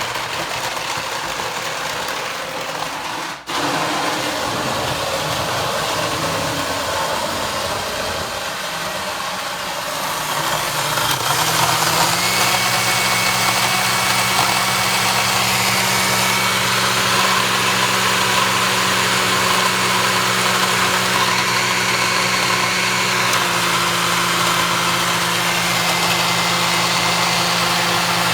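Electric blender motor running steadily, cutting out for a moment about three seconds in. From about eleven seconds in it gets louder and settles into a steady hum.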